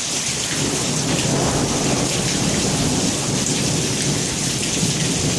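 Thunder rumbling low and long after a lightning strike, building about half a second in, over the steady hiss of heavy rain.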